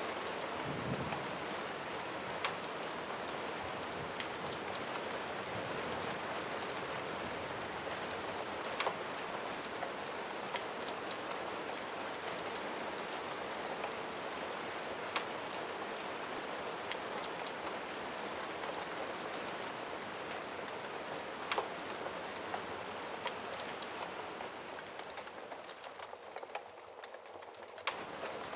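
Steady rain falling, an even hiss with scattered sharper drop ticks. Shortly before the end the rain briefly thins and drops in level, then comes back suddenly at full strength.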